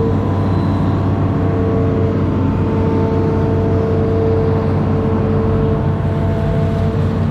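Amphibious excavator's diesel engine running steadily, a low hum with a steady whine above it that drops out briefly near the start.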